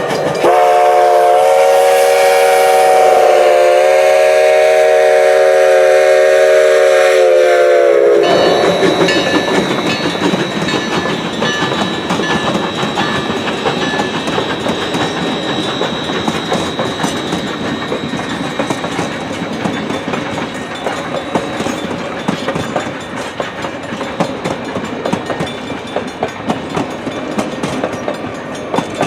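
Steam locomotive whistle blowing one long chord of several notes for about eight seconds, then cutting off. The train then rolls past with its wheels clacking over the rail joints, slowly getting quieter.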